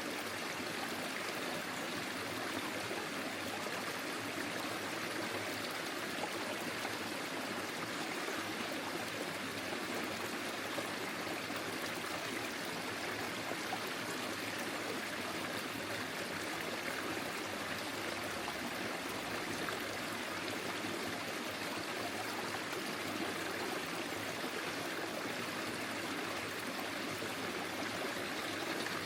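A small forest stream flowing steadily over stones, an even rush of water with a light trickle.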